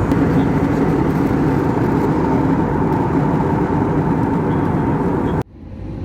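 Airbus A320neo cabin noise: a loud, steady rush of engine and airflow with a steady whine in it. It cuts off abruptly near the end, and a quieter hum follows.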